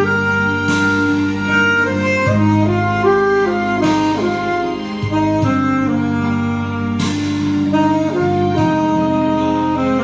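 Music: a saxophone playing a melody in held notes over a backing accompaniment.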